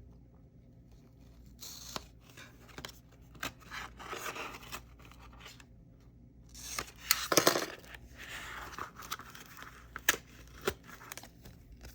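A mail package being opened by hand: packaging tearing and rustling in irregular bursts with small clicks, loudest about seven seconds in.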